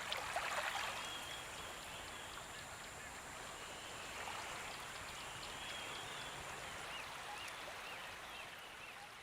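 Running stream water with bird calls: a brief louder burst just after the start, then a series of short high chirps repeating about twice a second near the end.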